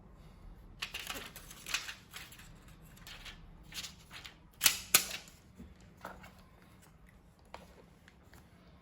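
Hard plastic and metal clicks and short scrapes from a laptop being handled and taken apart, with two sharp loud clicks in quick succession near the middle, then a few scattered clicks.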